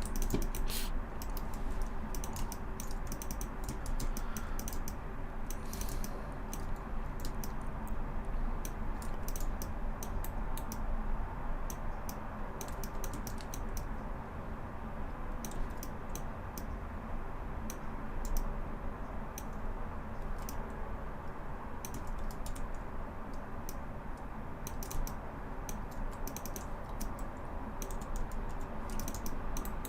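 Computer keyboard keys being tapped in irregular bursts of clicks, as shortcut keys are pressed while modelling, over a steady background hum.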